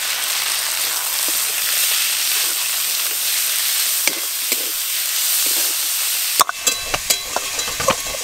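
Raw chicken mince sizzling in hot oil in a metal karahi, with a spatula stirring it through in a few strokes. About six seconds in the sizzle cuts off suddenly and a few light clicks and knocks follow.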